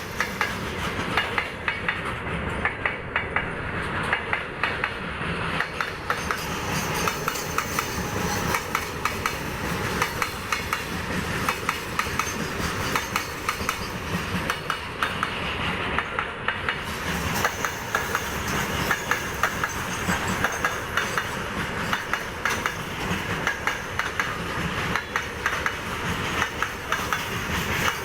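Railway coaches of train 13607 rolling along the track, the wheels clacking steadily over the rail joints.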